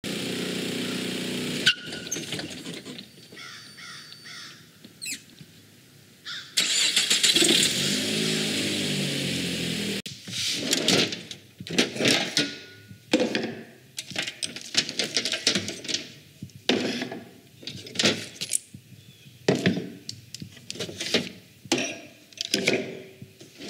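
A car engine running, with a loud stretch of revving near the middle. After it comes a run of short, irregular knocks and clatter.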